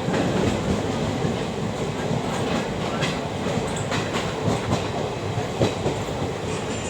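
Train rolling along the track with a steady rumble, and irregular clicks and knocks as the wheels pass over rail joints.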